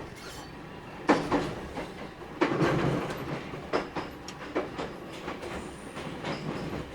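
JR Kyushu 811 series electric multiple unit running, its wheels clacking over rail joints. There are about six irregularly spaced clacks over a steady rumble, the sharpest about a second in.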